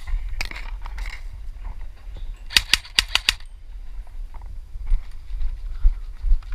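Airsoft gun fired semi-auto: a quick run of about six sharp shots in under a second, about two and a half seconds in. A steady low rumble runs under it, with a strong low bump near the end.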